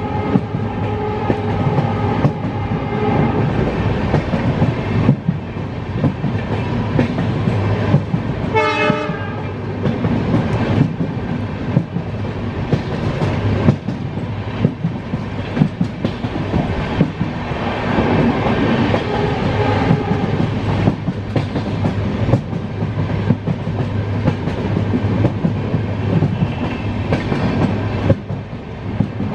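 Indian Railways express train running on the track, heard from an open coach door: continuous rumble and wheel clatter, with a short horn sound about nine seconds in.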